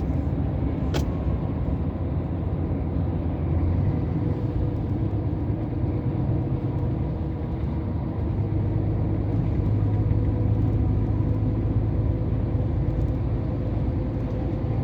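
Scania R500 truck driving at road speed, heard from inside the cab: a steady low engine drone with tyre and road noise. One short click comes about a second in.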